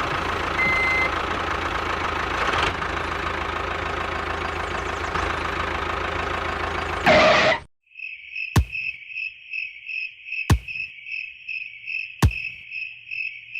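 A motor running steadily for about seven seconds, then cutting off abruptly. After a moment of quiet come steady insect-like chirps, about two a second, broken by three sharp clicks.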